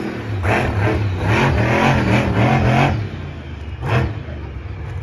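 Monster truck engine revving hard in quick repeated blips, the pitch rising and falling, then a single short rev about four seconds in.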